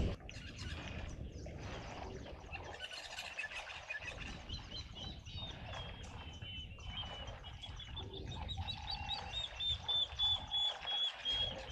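Birds chirping: a quick run of short, repeated high notes that starts a few seconds in and grows louder near the end, over a steady low background noise.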